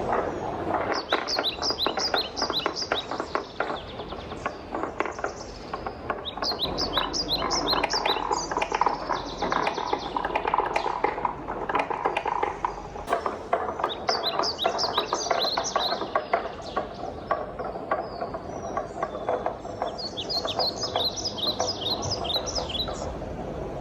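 Wooden balls rolling and clattering down a wooden marble-run track: a steady rolling rumble with dense, quick clicks. Four times, a run of short, high, chirp-like notes rings over it, each run lasting about two to three seconds.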